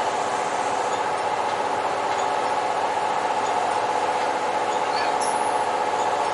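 Steady hum of a Kintetsu electric commuter train heard from the cab, with several steady mid-pitched tones, as the train stands or creeps to its stop at the platform.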